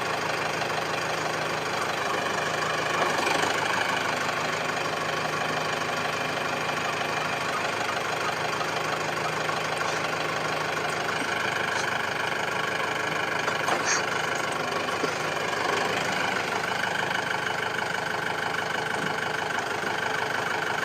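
Tractor engine idling steadily, with a few faint knocks.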